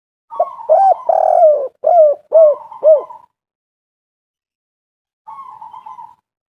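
Spotted dove (tekukur) cooing: a quick run of five or six arched coo notes lasting about three seconds, then a shorter, fainter rolling phrase near the end.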